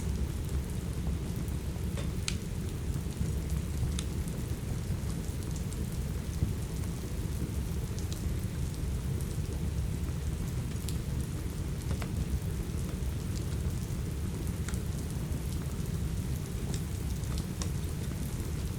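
Steady rain over a deep, constant low rumble, with scattered sharp crackles and pops from a wood fire every second or few.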